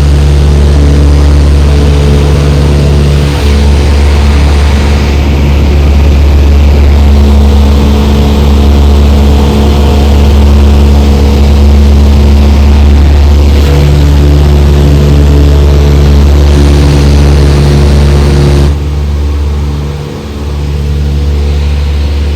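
Light aircraft's piston engine and propeller droning steadily, heard from inside the cabin, with a strong low hum. About nineteen seconds in the sound drops a little in level and loses some of its hiss, with two brief dips after.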